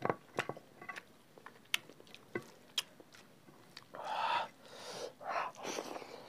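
Close-miked chewing of rice and egg curry eaten by hand, with a string of sharp wet mouth clicks, then a few short noisy swishes about four seconds in as fingers mix rice on the plate.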